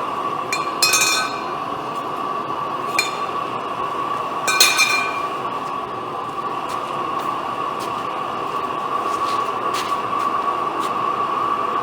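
Gas burner under a chimney extension running steadily with a hiss and a steady whistling tone, heating the engine's ignition. A few metallic clinks ring out over it, the loudest about four and a half seconds in.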